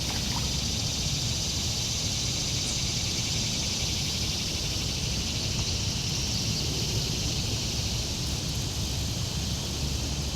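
Steady outdoor ambience: a continuous high-pitched insect chorus over a low rumble.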